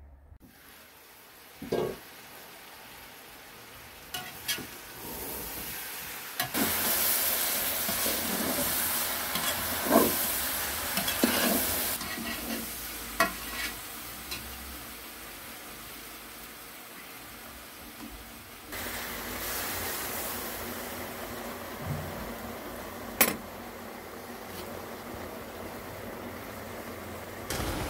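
Food sizzling as it fries in a pan, stirred with a utensil that knocks against the pan now and then. The sizzle grows louder about six seconds in.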